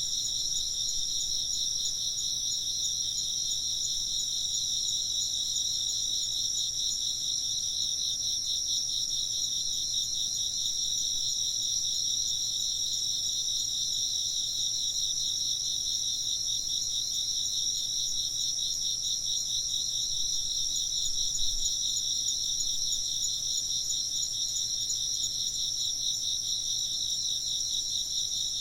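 A chorus of chirping insects, a steady high-pitched trill with a fast pulsing texture that never lets up.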